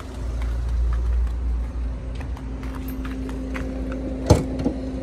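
Car engine running with a steady low rumble and hum. About four seconds in there is a sharp knock, followed by a smaller one.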